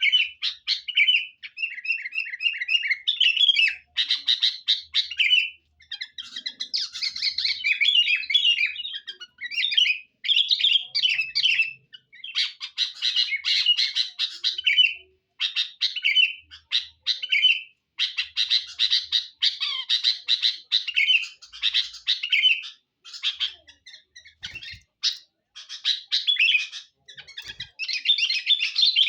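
Sooty-headed bulbul (kutilang) calling busily: bursts of short, bright chirping phrases, repeated over and over with brief pauses in between.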